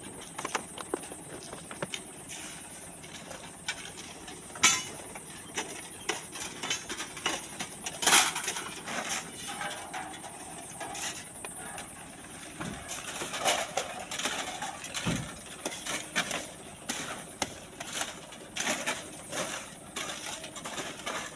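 Irregular clinks, knocks and scrapes of shovels working sand and stones, with two louder sharp knocks about five and eight seconds in.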